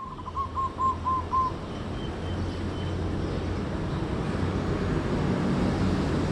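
Zebra dove calling: a quick run of six short cooing notes, about four a second, in the first second and a half. A steady low rumbling background noise follows and slowly grows louder.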